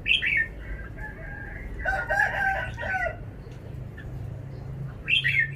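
Red-whiskered bulbul singing short, bright whistled phrases at the start and again about five seconds in. A longer, lower call with several stacked tones comes in about two seconds in and lasts just over a second.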